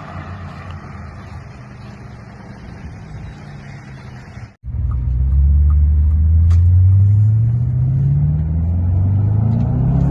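Bentley Continental GT's twin-turbo V8 through a Quicksilver active-valve exhaust, running quietly at first. After an abrupt cut it is much louder, its note rising steadily as the car accelerates.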